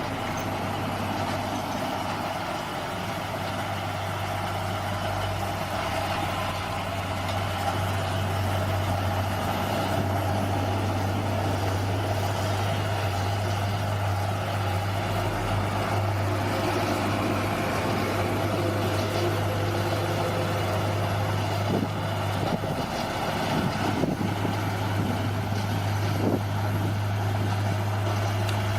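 Bulldozer's diesel engine running steadily at a constant low drone, with a few sharp knocks and cracks in the last several seconds.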